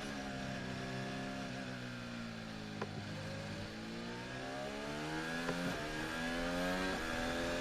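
Onboard sound of a Red Bull Formula 1 car's Honda 1.6-litre turbo-hybrid V6. The engine note falls for about three seconds as the car slows, then climbs steadily as it accelerates again, with a few short clicks along the way.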